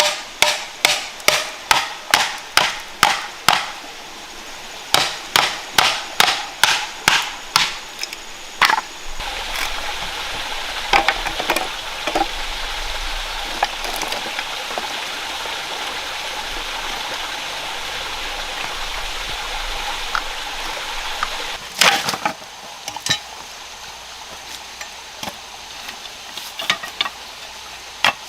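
Rhythmic hammering, about three blows a second, in two runs. Then comes a long stretch of steady rushing water with a few light clicks, one loud knock, and a scatter of lighter knocks near the end.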